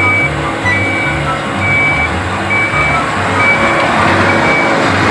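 Truck's reversing alarm beeping about once a second over the running diesel engine.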